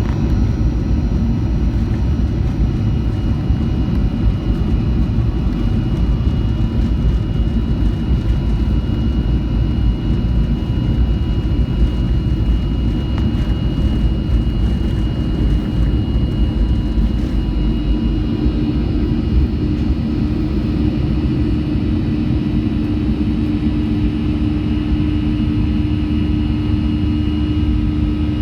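Cabin noise of a Boeing 737-300 with its CFM56-3 jet engines under high thrust: a loud, steady rumble with thin steady whines above it. A lower hum grows stronger over the last third.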